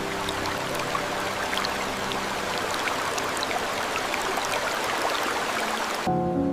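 Steady hiss of rain with scattered sharp drip ticks, which cuts off suddenly about six seconds in.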